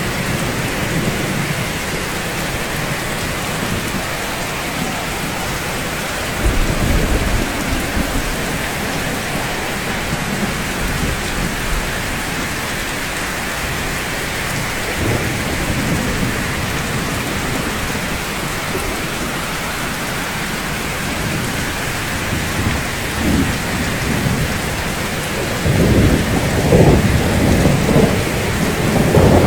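Steady rain falling, with low rumbles of thunder rolling in several times; the longest and loudest rumble comes near the end.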